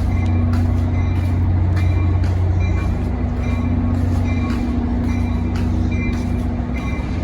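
NJ Transit locomotive standing with a steady low engine hum while its bell rings repeatedly, about one to two strikes a second.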